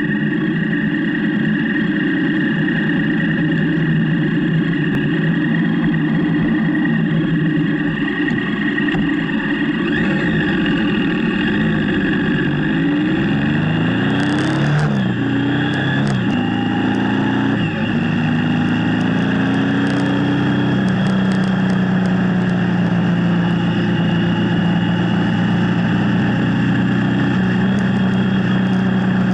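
Motorcycle engine running on the move. Its pitch falls and climbs in steps about halfway through as the revs change with the gears, then it holds steady.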